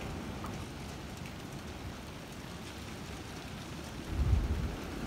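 Steady rain falling. About four seconds in, a brief low rumble of wind gusting against the microphone is the loudest moment.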